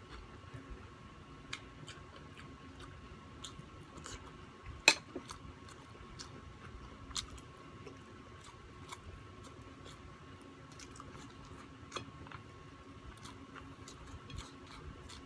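Close-up eating sounds: a person chewing rice and meat, with wet mouth noises and scattered small clicks, the sharpest about five seconds in.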